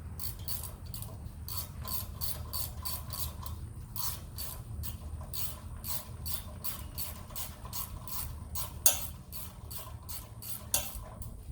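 Ratchet wrench clicking in a steady run of about two to three clicks a second as it is worked back and forth to loosen the fasteners on a backhoe's bucket pins, with two louder metal knocks near the end.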